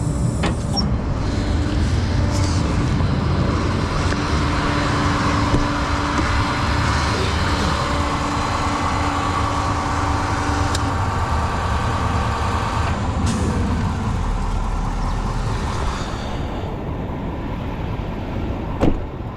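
Tow truck driving on the road, its engine running steadily under road noise.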